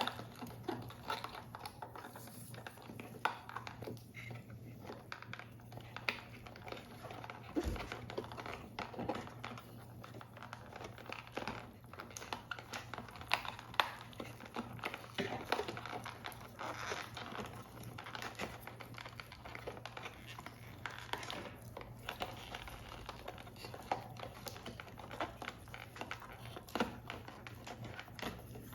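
Paper and card being handled during paper model assembly: irregular crinkling and rustling with many small taps and clicks.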